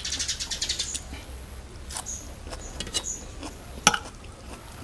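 Close-up chewing of crisp raw vegetables: a quick run of crunches in the first second, then slower, softer chewing, with one sharp click about four seconds in.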